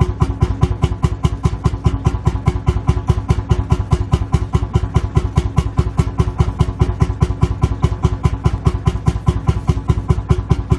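Lanz Bulldog tractor's single-cylinder two-stroke hot-bulb engine idling, an even, steady thump-thump at about five beats a second.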